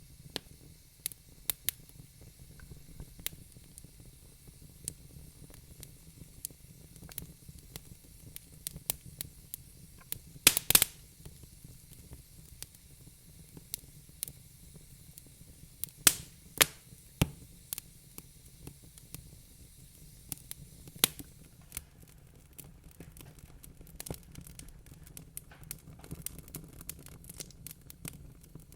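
Wood fire crackling in a fireplace: irregular pops and snaps over a low steady rumble, with a loud cluster of pops about ten seconds in and a few more strong snaps a little later.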